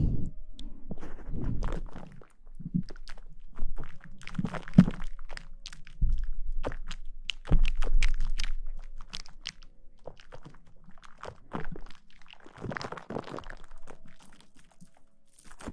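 Close-miked ASMR rustling: irregular crackling and crinkling with occasional soft low thumps.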